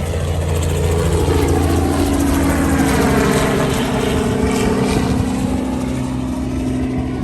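Tour helicopter flying low overhead, its rotor and engine getting louder to a peak about three seconds in and then slowly fading as it passes.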